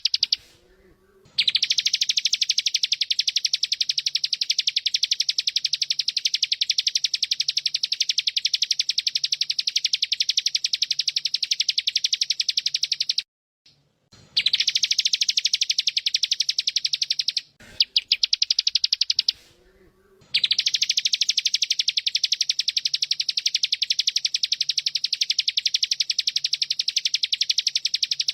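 Bren cicada giving its continuous, very fast pulsing buzz in long unbroken bouts, cutting out briefly about a second in, around 13 seconds and around 20 seconds before starting again.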